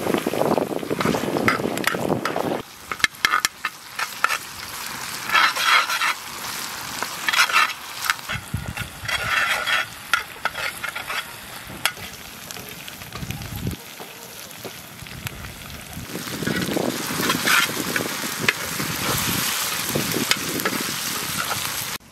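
Hot oil sizzling as tomato paste fries with onions in a large pan, with a metal spoon scraping and stirring. The sizzle is loudest at the start and again near the end, with scrapes and clicks of the spoon in between.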